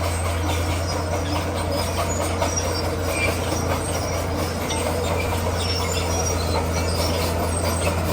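Crawler bulldozer working: its diesel engine runs steadily under load while its steel tracks grind, clank and give scattered high squeaks.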